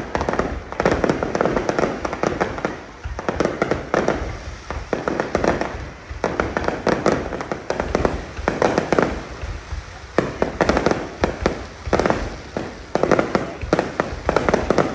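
Fireworks display: shells bursting one after another, a rapid, unbroken series of booms and sharp cracks coming about every second.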